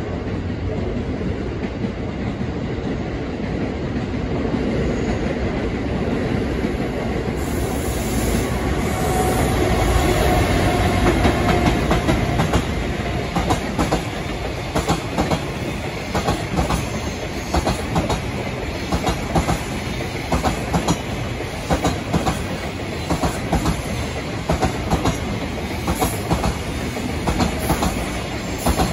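JR Freight EF510 electric locomotive running past, its rumble swelling to a peak, followed by a long train of container wagons whose wheels clatter in a steady rhythm over the rail joints.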